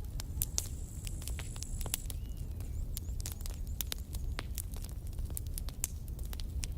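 Campfire burning and crackling: frequent irregular sharp pops and snaps over a steady low rumble.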